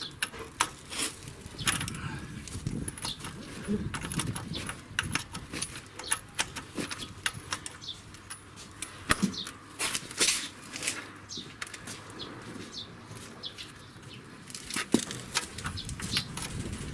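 A spanner working loose the ball-joint nut on a BMW X5 E70's front lower control arm, with irregular metallic clicks and clinks throughout.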